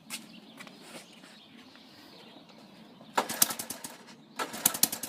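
Honda ATC 200S single-cylinder engine being cranked with its recoil pull starter, twice, about three seconds in and again near the end: each pull gives a quick run of chuffing compression strokes that dies away without the engine catching. It hesitates and won't fire because the spark plug is carbon-fouled.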